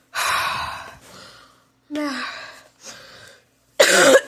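A person breathing hard close to the microphone in a series of loud gasping breaths, ending in a short voiced groan with falling pitch near the end, as from shivering in the cold.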